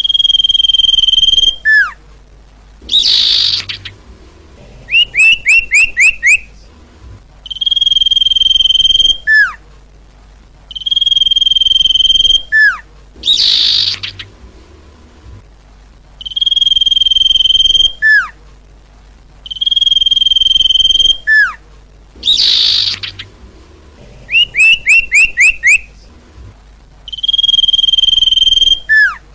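Sirtu bird song used as a lure, loud and repeating: long steady high whistles alternate with short falling notes, raspy bursts, and quick runs of about five falling notes.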